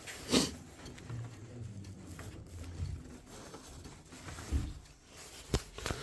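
A few light knocks and clicks of parts and tools being handled while working on the boiler's internals, one shortly after the start and two near the end, over a faint low hum.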